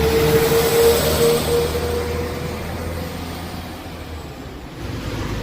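A train running past close by and then moving away: a steady whine over a low engine drone and a wide noise of wheels on rails. It is loudest about a second in and fades over the next few seconds.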